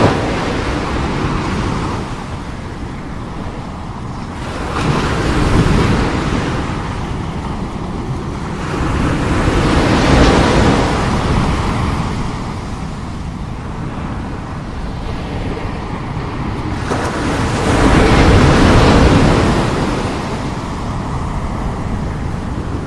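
Strong sea waves breaking and washing ashore, the surf swelling into a loud surge about every five seconds, with the biggest one near the end. Wind buffets the microphone.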